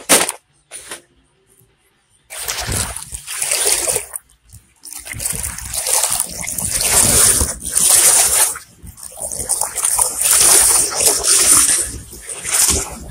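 Water splashing and sloshing in repeated surges, starting about two seconds in after a short quiet.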